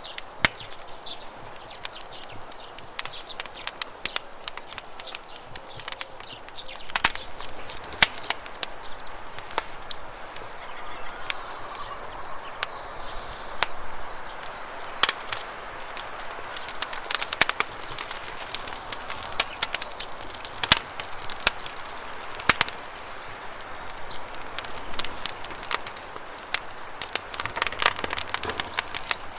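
Wood campfire crackling with irregular sharp pops over steady rushing river water. A bird trills briefly near the middle.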